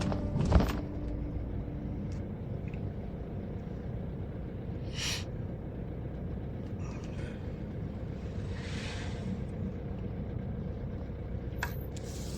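Car driving, heard from inside: a steady low road rumble, with a thump just after the start and brief hissing swells about five and nine seconds in.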